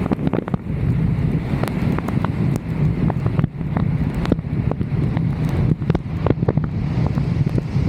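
Wind buffeting the microphone of a roof-mounted camera: a steady low rumble, with many sharp ticks scattered irregularly through it.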